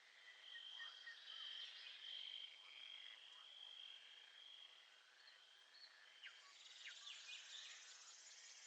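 Faint nature ambience of insects trilling at a steady high pitch that breaks off and resumes, with short falling chirps scattered through it; a higher buzzing trill swells in near the end.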